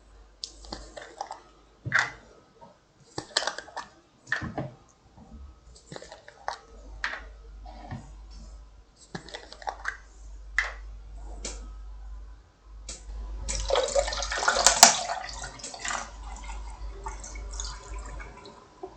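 Close-miked sounds of grapefruit juice being drunk: a run of separate short clicks and gulps, then about three seconds of continuous liquid gushing a little past the middle, the loudest part.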